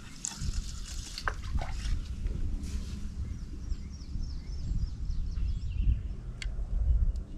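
Birds calling and chirping over a low, steady rumble, with two sharp clicks near the end.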